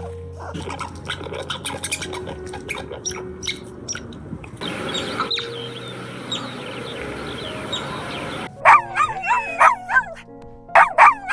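A run of short animal clips over background music. First come chirping calls, then near the end loud whining calls that rise and fall in pitch.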